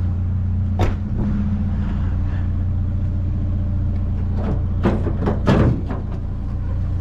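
Truck engine running steadily, with a sharp click about a second in and a short cluster of clunks around five seconds in.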